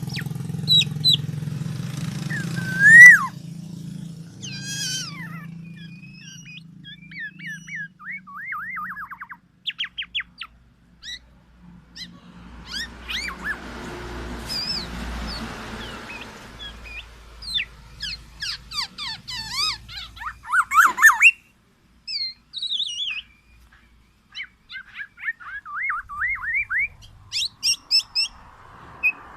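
Black-naped oriole (kepodang) calling: runs of quick whistled notes and chattering trills, on and off. A low engine hum sits under the first few seconds.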